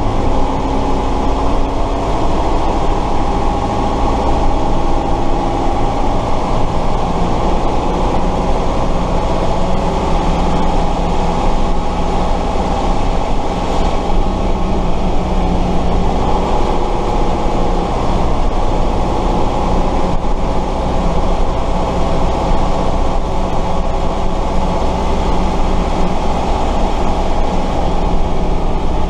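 Tatra 138 fire truck's air-cooled V8 diesel engine running steadily at fairly constant revs while driving, heard on board the truck.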